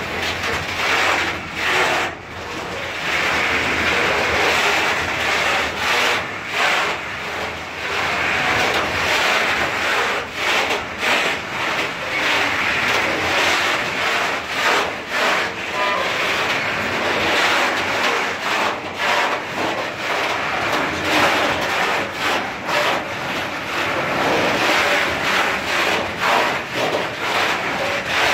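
Container flat wagons of a freight train rolling past at close range: a steady rumble and rattle of steel wheels on the rails, with frequent irregular clicks and knocks.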